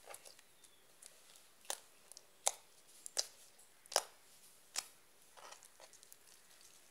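Slime mixed with beads being squeezed and pressed, giving a series of sharp crunchy clicks, the loudest five coming a little under a second apart in the middle.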